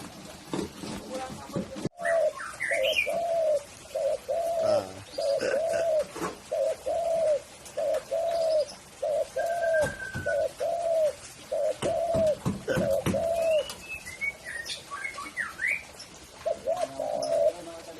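Spotted dove (tekukur) cooing: a long run of about a dozen evenly spaced, arched coo notes, pausing briefly before a few more near the end. Other small birds chirp faintly in the background.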